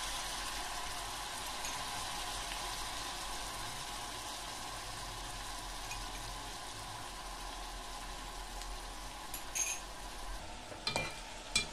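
Beef, garlic, onion and ginger sizzling steadily in a pot on a gas stove, frying in soy sauce that has just been added. Near the end come a few short clinks of the stirring spoon against the pot.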